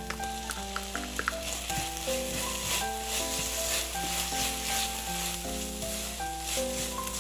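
Green beans and ground pork sizzling in a frying pan as a seasoning sauce is poured in and a spatula stirs them, with a few sharp clicks early on and the sizzle growing louder after about two seconds. Soft background music plays underneath.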